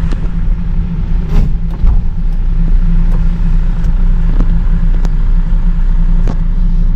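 Car driving, heard from inside the cabin: a steady low road and engine rumble, with a scatter of sharp ticks over it.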